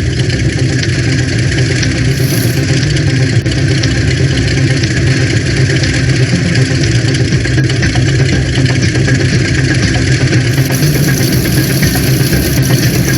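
A vehicle engine running steadily, with a constant low rumble and no change in speed.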